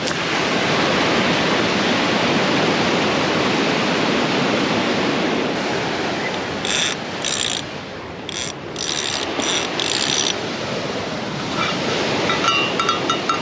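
Surf washing steadily on the shore. A fishing reel's mechanism gives several short bursts of clicking from about seven to ten seconds in, then a fast run of ratchet clicks near the end.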